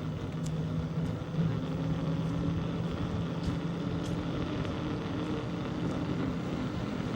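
An engine running steadily at an even pitch, nearby.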